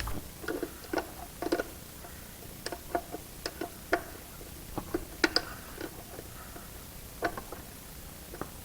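Irregular small clicks and taps of hand tools and small metal parts being handled during engine assembly work.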